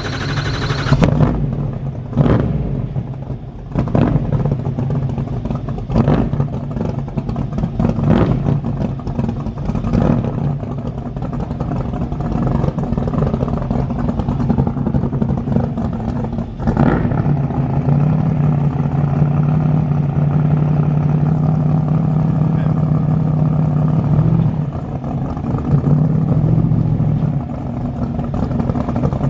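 Twin-turbo Dodge Demon V8 running with sharp cracks about every two seconds in the first half, then settling into a steady idle for the rest.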